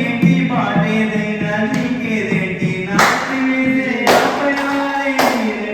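A man singing a song, with sharp hits keeping time about once a second from about three seconds in.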